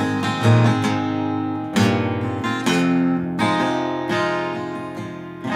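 Acoustic guitar strummed, a few chords each left to ring and fade before the next stroke.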